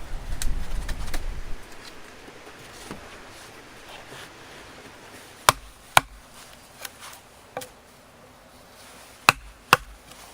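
Sharp knocks of a tool striking wood, bushcraft chopping or pounding. They come in two pairs about half a second apart, one pair about five and a half seconds in and one near the end, with fainter knocks between them. A low rumble runs through the first second or so.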